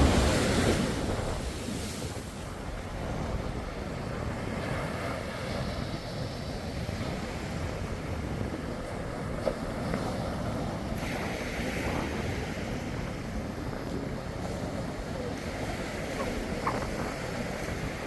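Surf washing on a beach, a steady rush of waves, with wind noise on the microphone. It is loudest in the first second or so, then settles to an even level.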